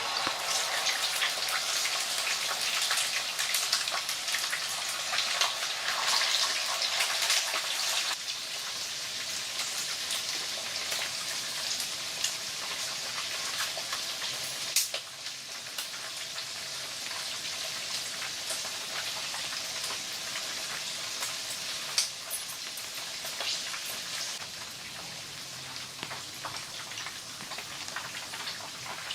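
Rain falling steadily as a dense patter of drops, with a few sharper single drop hits. It is heavier for the first several seconds, then eases a little.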